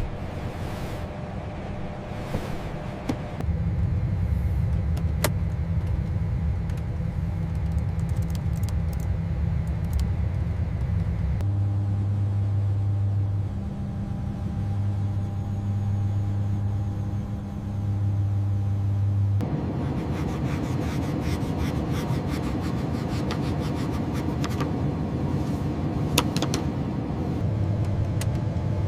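Low mechanical rumble and hum that changes abruptly about every eight seconds. In the middle stretch a hum cuts in and out, and faint clicks and rattles run through the last third.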